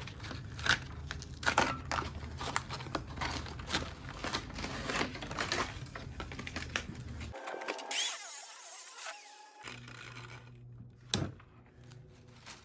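Copper winding wire being pulled out of an old welder's transformer coil: irregular scraping and clicking of metal on metal. About eight seconds in comes a louder, high-pitched scrape lasting about two seconds, and a single sharp knock follows near the end.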